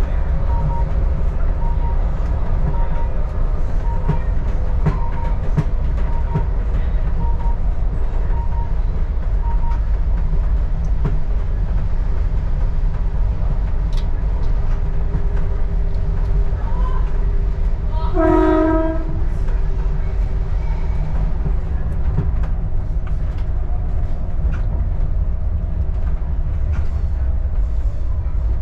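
Diesel railcar running along the track with a steady low rumble. A series of short, evenly spaced beeps sounds for about the first ten seconds, and a single horn blast of about a second comes about two-thirds of the way through.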